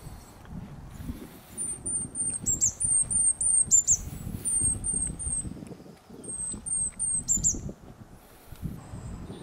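A small songbird singing quick series of very high, thin notes, several runs of four or five notes each, with a few falling notes mixed in. A low, irregular rumble and thumping runs underneath.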